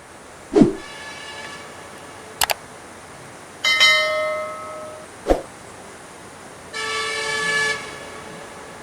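Bus's musical multi-tone horn (a 'telolet' horn) sounding three blasts, each on a different pitch. Sharp knocks fall between them, the loudest about half a second in.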